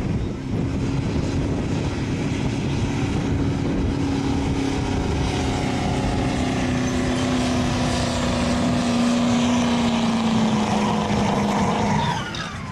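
Diesel truck engine running hard at high revs under load, its pitch sinking slowly as it is pulled down, then falling away near the end.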